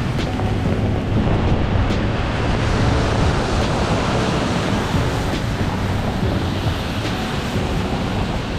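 Steady rush of falling rain, with wind buffeting the microphone.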